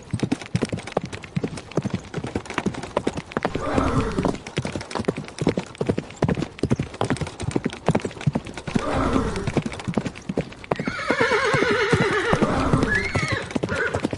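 Horses galloping, a fast, irregular clatter of hoofbeats, with horses neighing several times: around four and nine seconds in, then a longer whinny with a quavering pitch about eleven seconds in and a short one just after.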